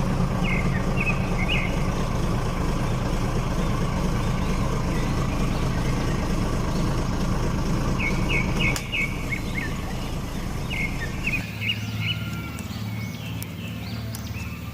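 Small birds chirping in short quick runs, several times over, above a steady low rumble that drops away about two-thirds of the way through.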